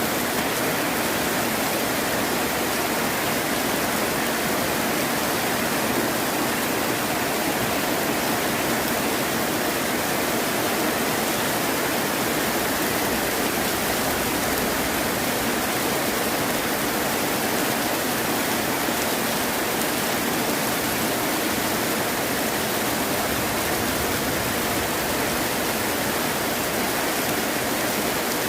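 Heavy rain falling, a steady, even hiss with no thunder or changes.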